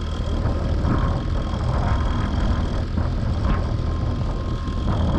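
Fishing boat's motor running steadily at low speed, under a heavy low rumble of wind and waves.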